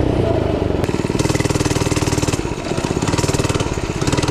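Small 99cc four-stroke mini bike engine running under throttle with a rapid, even firing beat. It eases off briefly a little past the middle, then picks back up.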